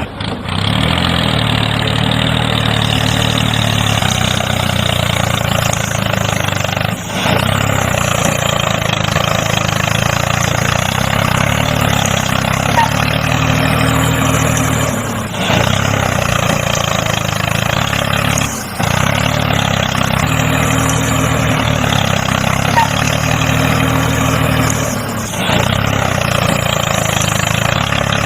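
Mini tractor's motor running steadily with a low hum, briefly breaking off four times.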